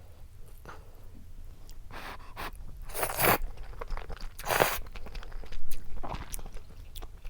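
Close-miked eating: a handful of crunching bites and chewing, the loudest two about three and four and a half seconds in.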